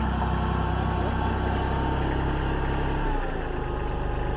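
A motor or engine running steadily with a low hum. About three seconds in, its tone drops slightly, as if it slows or eases off.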